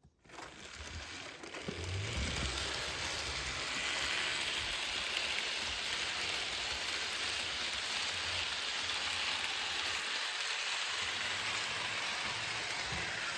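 HO-scale model steam locomotive and passenger cars running on track: a steady rushing hiss of the motor and metal wheels rolling on the rails. The hiss builds over the first two seconds, then holds, with a few soft low thumps.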